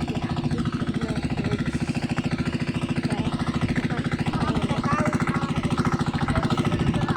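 Tractor engine running steadily, with a rapid, even pulse of firing strokes.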